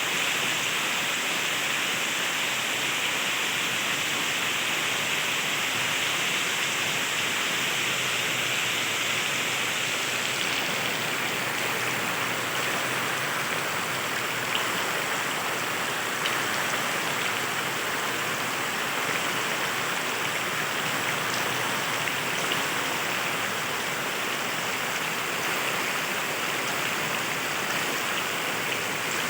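Heavy rain falling steadily, with a few sharper drip taps around the middle.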